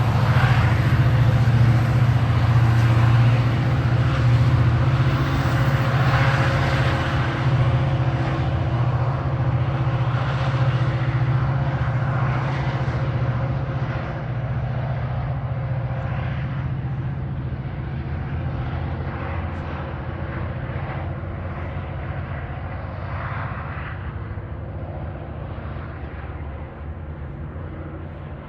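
EMD-powered MP36PH-3S diesel locomotive of a departing commuter train, a steady low engine drone with wheel and rail noise, growing steadily fainter as the train moves away.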